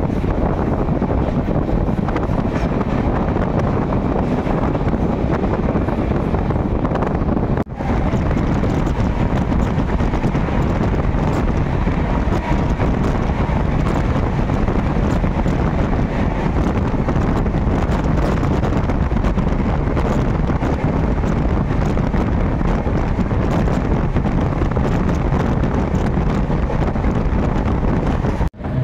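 Express train running fast, with a steady rush of wind buffeting the microphone. The sound drops out sharply for a moment about eight seconds in and again just before the end.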